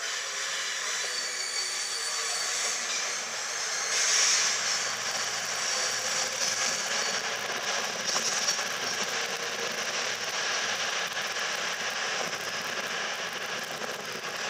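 CrossCountry Voyager diesel multiple unit running on the tracks: a steady train noise with a brief louder swell about four seconds in.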